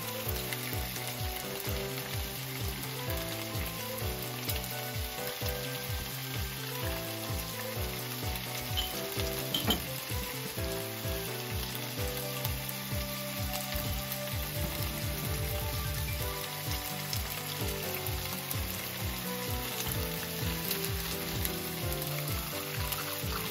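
Pork-wrapped burdock rolls sizzling steadily in oil in a frying pan turned down to low heat, under background music with a steady beat.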